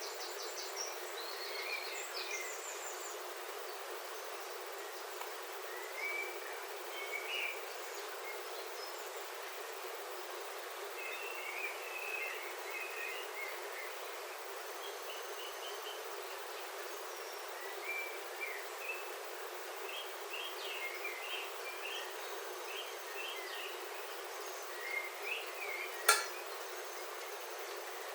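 Steady rain on a roof heard from inside, with birds chirping now and then. One sharp tap near the end is the loudest sound.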